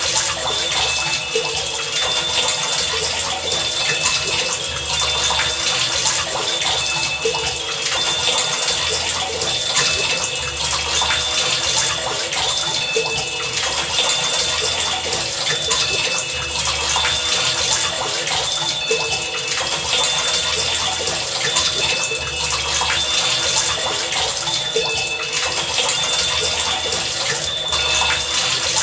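Heavy rain pouring steadily, with thin high tones that come and go and a low hum that swells and fades about every two seconds.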